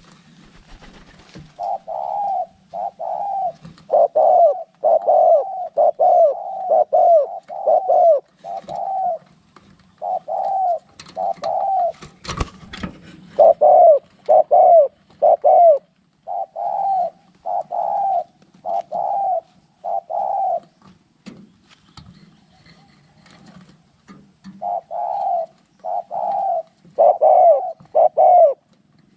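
Spotted doves cooing in long runs of repeated coo notes, with short breaks between phrases and a longer pause about two-thirds of the way through. These are rival birds calling against each other in a fight.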